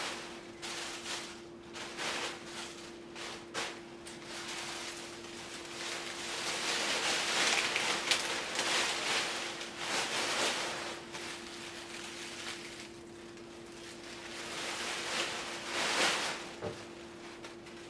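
Rustling and light handling noises that swell and fade, with a few small clicks, over a faint steady hum.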